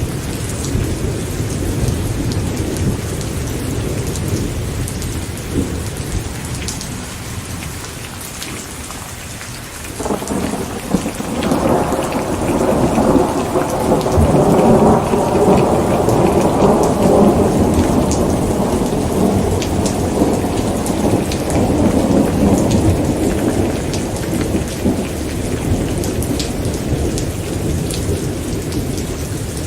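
Steady rain with fine patter of drops, and a long roll of thunder that starts suddenly about a third of the way in, swells to its loudest around the middle and slowly rumbles away.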